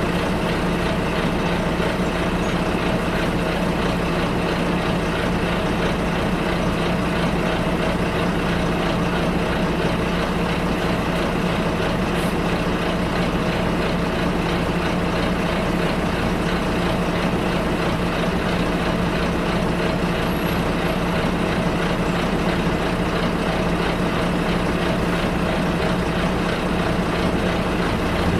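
Bus engine and road noise heard from inside the passenger cabin: a steady, unbroken drone with a constant low hum.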